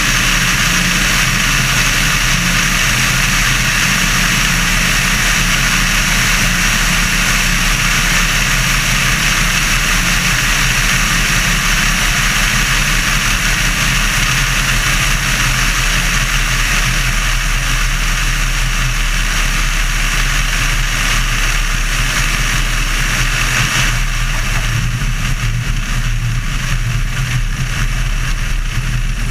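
Sonerai's Volkswagen-based air-cooled flat-four aircraft engine running steadily at power, with propeller and airflow hiss over the low engine drone. About 24 s in, the hiss drops and the engine note shifts slightly lower.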